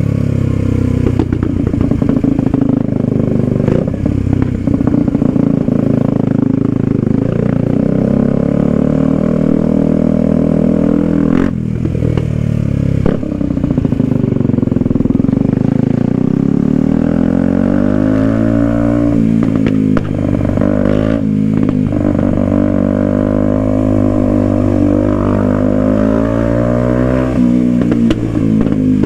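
Kawasaki Ninja 125's single-cylinder four-stroke engine running under way, its pitch repeatedly climbing and dropping as it is revved through the gears.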